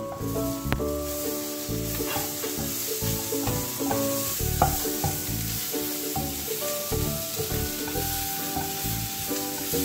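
Squid masala sizzling in a nonstick frying pan, stirred and scraped with a spatula in short irregular strokes over the steady frying hiss.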